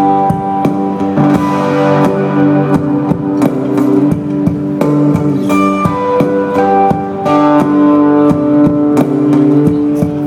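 Band playing an instrumental passage of a song without singing: held guitar notes over a regular drum beat.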